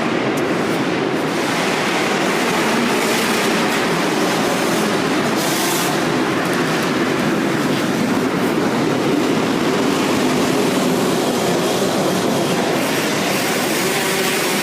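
Motocross bike engines running inside an indoor motocross hall: a loud, steady, unbroken drone.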